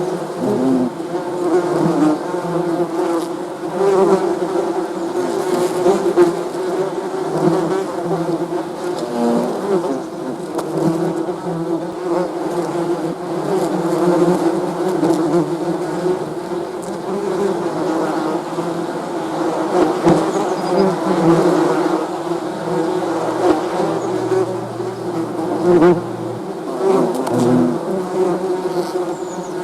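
Many bees buzzing together: a dense, steady hum of overlapping buzzes at slightly different pitches, with single buzzes swelling and fading over the top.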